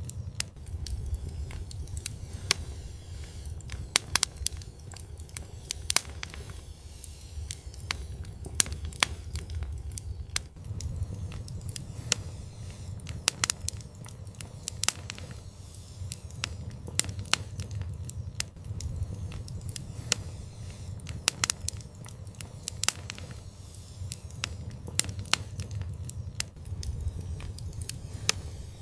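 Fireplace fire crackling, with irregular sharp pops, several a second at times, over a low steady rumble.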